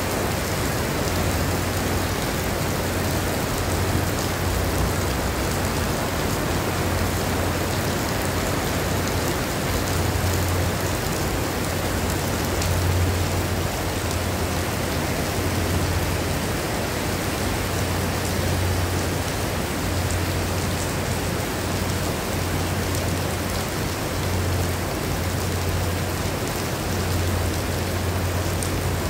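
Heavy tropical rain falling steadily on wet paving and grass, a dense unbroken hiss. A low rumble comes and goes underneath it.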